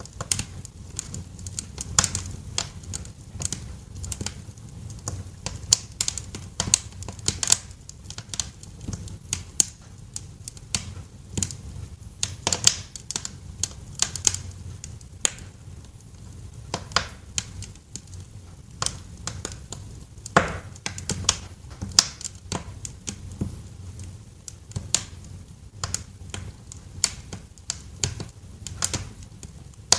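Wood fire crackling in a fireplace: irregular sharp pops and snaps, several a second and uneven in strength, over a low steady rumble.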